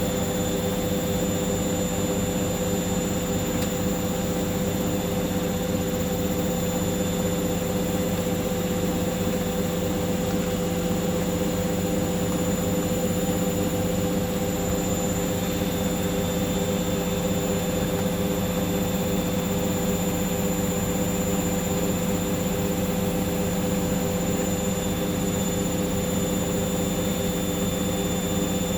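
Hoover washing machine spinning steadily at high speed in its final spin, up to 1400 rpm: a constant motor whine and drum hum with no change in pitch or level.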